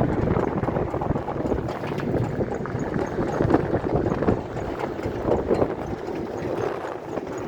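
A vehicle driving along a rough track, with jolts and rattles over the bumps and wind buffeting the microphone.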